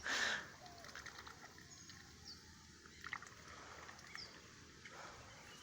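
Goose foraging with her bill in a shallow muddy puddle: faint dabbling, nibbling and small splashes in the water, opening with a brief louder splash.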